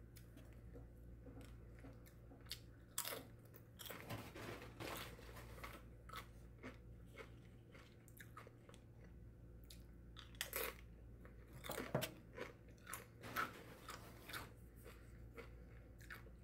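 A person chewing food close to the microphone, with scattered soft crunches and a few louder ones in the second half, over a faint steady low hum.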